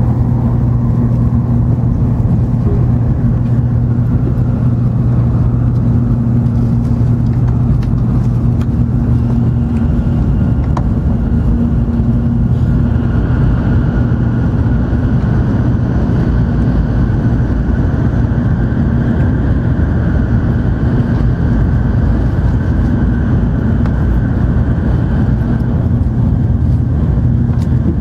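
Steady running noise inside the passenger cabin of an N700 series Shinkansen train: a low rumble with a steady hum, and a faint higher whine that comes in about halfway through.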